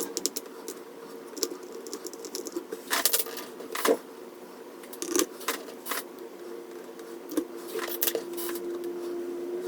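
Irregular small clicks and taps of plastic and metal parts being handled while a Commodore 64 keyboard key switch is put back together, over a faint steady hum.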